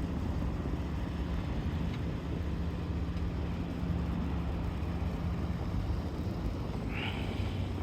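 A motor vehicle running: a steady low rumble with a steady engine hum.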